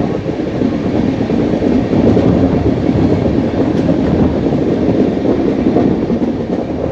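Steady running noise of an Indian Railways passenger train's wheels and coaches on the rails, heard from aboard at an open coach door.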